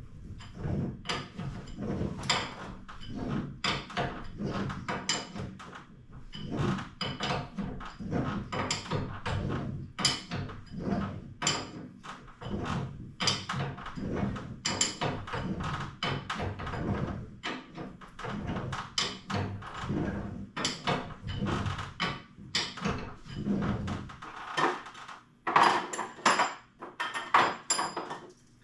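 Irregular knocks and clanks of hand work on garage door hardware, many a second, with a louder run of sharp clacks near the end.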